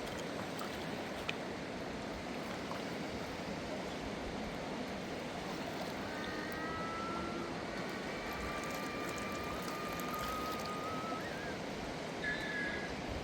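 Steady rushing of a river. A few faint, thin high tones come and go about halfway through and again near the end.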